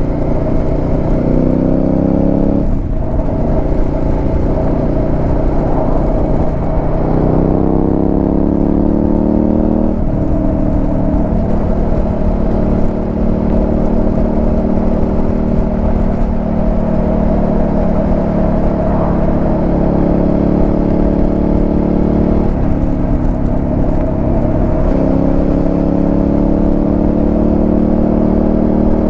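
Suzuki SV650's 90-degree V-twin engine heard through a Delkevic aftermarket exhaust while riding: the note rises in pitch as the bike accelerates and drops back at each upshift, several times. Through the middle it holds a steady pitch while cruising.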